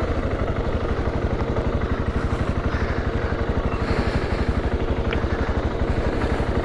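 BMW G650GS motorcycle's single-cylinder engine running steadily under way, an even pulsing exhaust beat with a steady whine over it.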